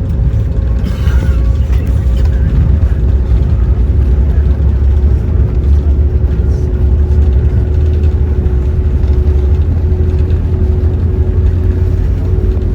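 Jet airliner engines and airframe during takeoff: a loud, steady low rumble with a faint steady hum above it.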